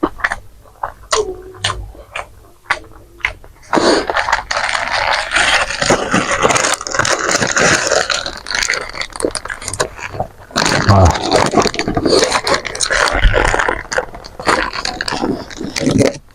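Close-up eating sounds of a person chewing crispy fried food. A few sharp mouth clicks come first, then about six seconds of loud crunching and crackling. After a brief break it goes on for about five seconds more.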